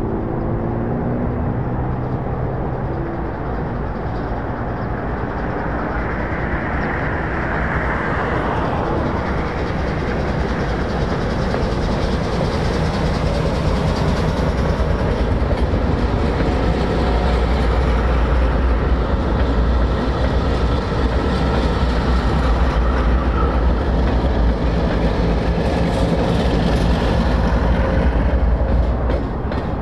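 Freight train rolling past: a steady rumble and clatter of wheels on rail that builds through the middle and eases off near the end, with a diesel locomotive's engine hum at the start.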